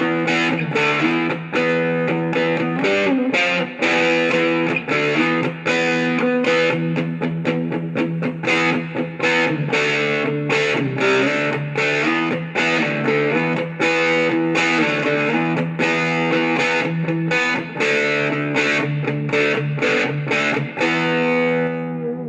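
Electric guitar played through a Roland Micro Cube practice amplifier. Chords and notes are picked in a quick, steady rhythm, and a chord is left ringing right at the end.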